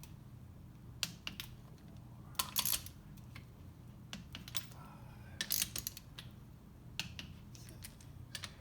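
Torque wrench tightening the case bolts of a Mercury Sport Jet to 20 foot-pounds. It clicks in short bursts a few seconds apart, one bolt after another, over a steady low hum.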